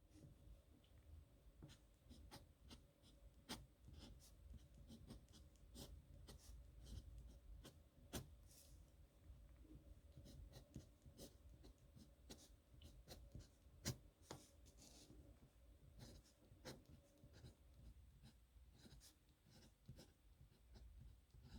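Nib pen scratching on paper in quick, irregular strokes, with a few sharper ticks, the loudest about 14 seconds in; faint throughout.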